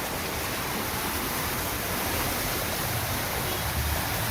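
Rushing floodwater: a steady, even rush of water.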